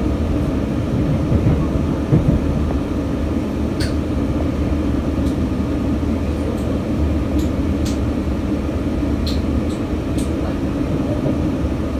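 Steady low rumble of a moving passenger train, heard inside the carriage, with a few short sharp ticks scattered through it.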